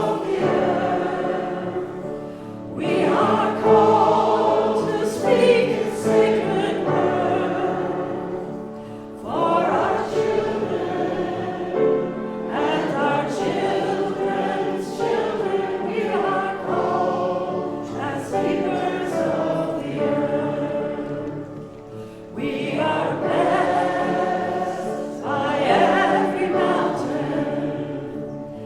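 Congregation singing a hymn together, in sung phrases with brief breaks between them.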